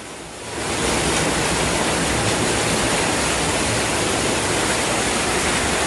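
Steady, loud rush of floodwater, swelling up over the first second and then holding even.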